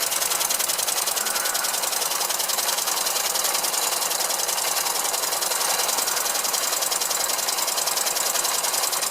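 Small 1912 hand-built oscillating engine running steadily on compressed air, a rapid, even clatter mixed with the running of the old Bing line shaft and the Wilesco toy machines it drives.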